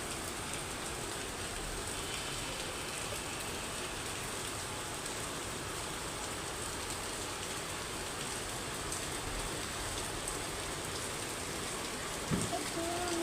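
Steady rain falling, an even hiss of drops, with one brief low thump near the end.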